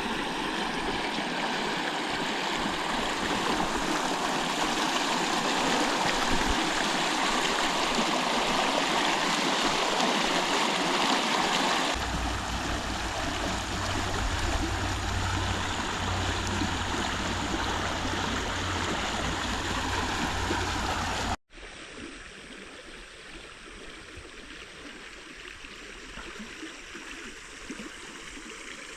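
Creek water running steadily over a trout stream. About twenty seconds in it cuts abruptly to a quieter stretch of flowing water.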